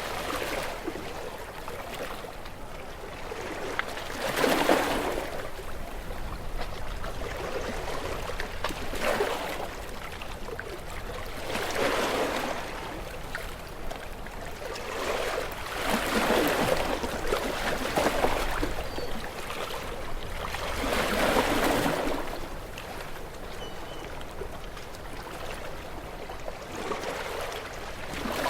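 Gentle waves washing onto a shore: a soft rush of surf swells and fades about every four to five seconds, with a low steady wash between.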